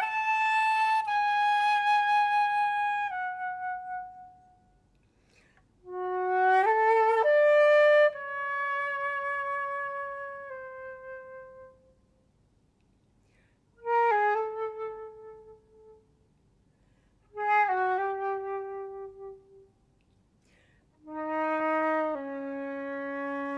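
Solo flute playing slow phrases of long held notes, five phrases with short silent pauses between them, the last one low in the flute's range.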